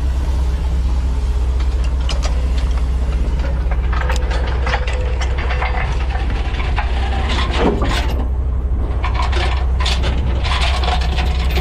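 Heavy truck diesel engine idling steadily, with repeated metal clanks and rattles of chain rigging being handled, and one short falling squeal about two-thirds of the way through.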